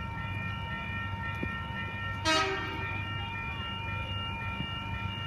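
Four-car Oscar (H set) electric train running into the platform with a low rumble and a steady whine, giving one short horn toot about two seconds in.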